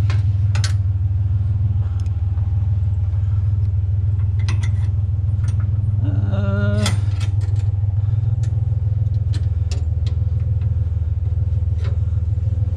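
Pickup truck engine running, a steady low drone, with scattered light clicks and rattles; a brief pitched sound about six seconds in.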